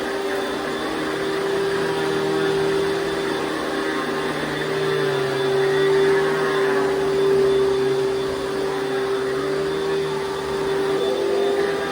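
Panasonic Jet-Flo MC-6215 upright vacuum cleaner's 7 amp motor running steadily with a constant whine, the loudness swelling and easing a little as it goes.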